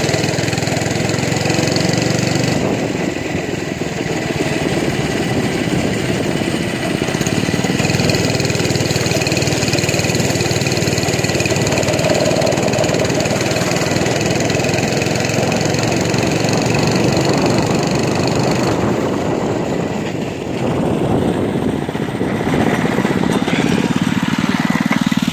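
Mini bike's small single-cylinder engine running, its sound shifting several times as the throttle and load change.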